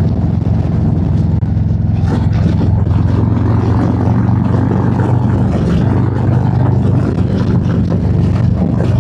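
Harley-Davidson V-twin with a 131 cubic-inch big-bore kit and a Screaming Eagle 517 cam, running hard under throttle on the move, its exhaust note loud and steady.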